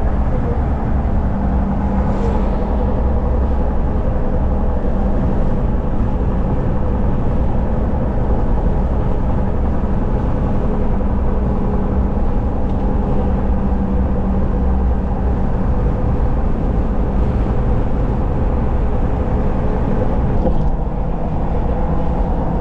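Steady hum and road noise of a car driving along, heard from inside the cabin.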